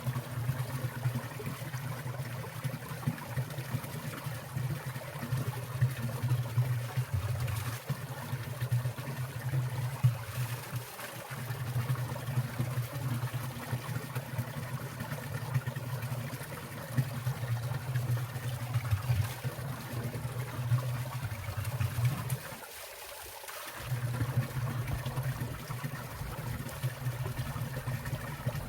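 Stream water trickling and splashing in a winter mountain valley, a continuous low burble that drops away briefly twice, once near the middle and once about four-fifths through.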